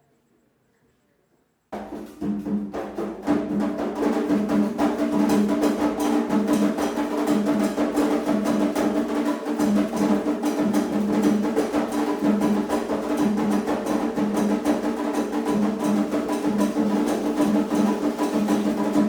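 Candomblé ritual drumming that starts abruptly after a second or two of near silence: fast, dense drum strokes with sharp wood-block-like strikes over a steady low tone.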